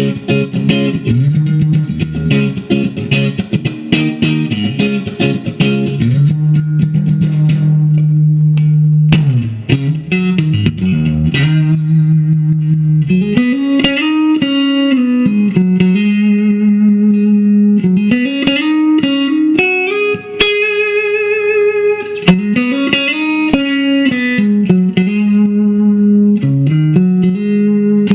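1962 Fender Stratocaster electric guitar being played: fast picked passages at first, then held notes bent up and back down in pitch, one with a wavering vibrato.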